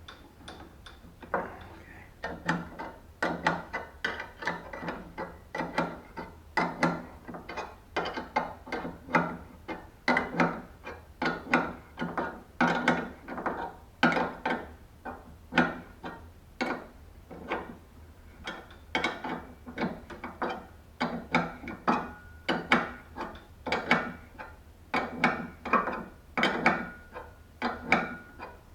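Hand ratchet clicking in repeated short strokes as it turns the screw of a spring compressor, squeezing a third-gen Firebird's door hinge spring so it can be removed.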